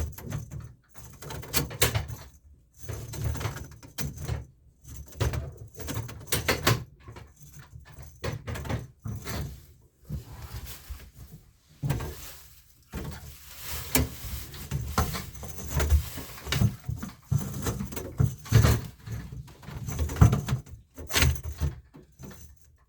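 Irregular clunks, knocks and scrapes of a hand drum drain auger (J snake) being handled and its cable worked out; the cable is stiff and a little jammed inside the drum from disuse.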